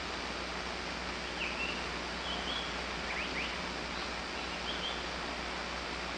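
A few faint, short bird calls, high and brief, about a second in, near the middle (two quick falling notes) and again later, over a steady rushing background hiss.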